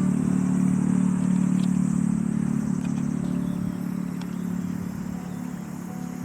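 A motor vehicle's engine running steadily, then fading gradually as it moves away.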